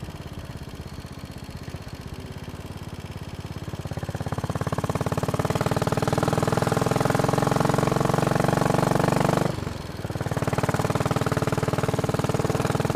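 Royal Enfield Bullet Machismo 500's single-cylinder four-stroke engine running on the move, quiet at first and opening up louder about four seconds in. It drops away briefly about two-thirds of the way through, then picks up again.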